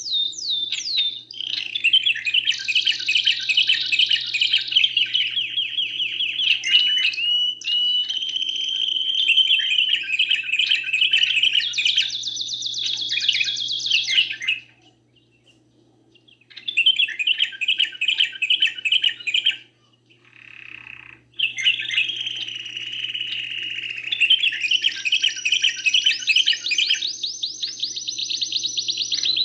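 Songbird singing long, fast rolling trills and chirps, high-pitched and nearly unbroken, with two short pauses about halfway through. A faint steady hum runs underneath.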